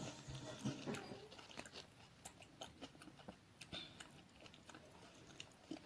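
Faint close-up chewing of lemon-soaked raw shrimp: irregular wet mouth clicks and smacks.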